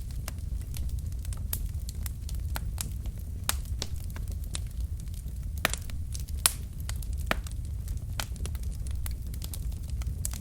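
Wood fire in a fireplace burning logs: irregular crackling and sharp pops over a steady low rumble, with a couple of louder pops about halfway through.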